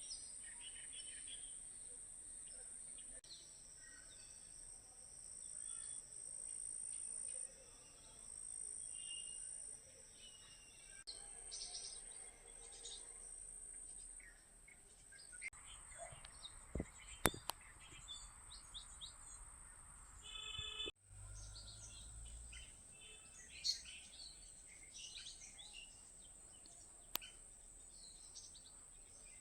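Small birds calling in short, scattered chirps over a steady high-pitched hiss, with a few sharp clicks.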